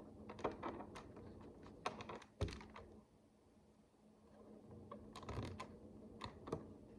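Tiny plastic micro bricks clicking and tapping as they are handled and pressed together, in three short flurries of clicks with a quiet gap in the middle.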